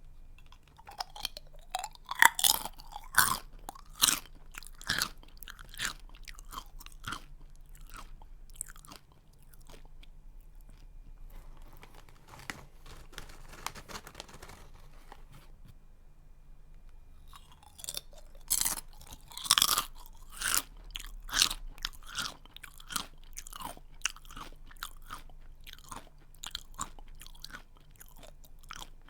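A person chewing a crunchy snack close to the microphone, with sharp crunches that thin out as the mouthful is chewed down. After a softer stretch in the middle, a fresh bite brings another run of loud crunches.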